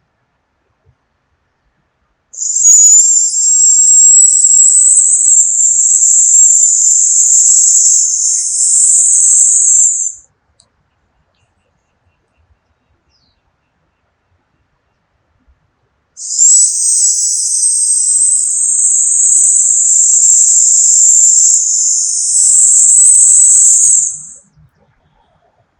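A person exhaling the Taoist lung healing sound, a long hissing "sssss" through the teeth, twice. Each hiss is steady and lasts about eight seconds, with a silent inhale of about six seconds between them.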